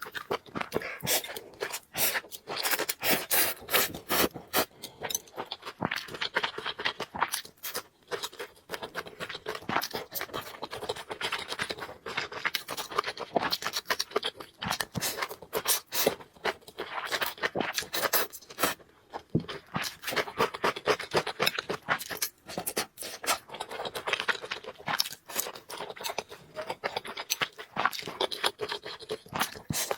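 Close-miked sounds of a person eating noodles: chewing, with many quick, irregular clicks and scrapes.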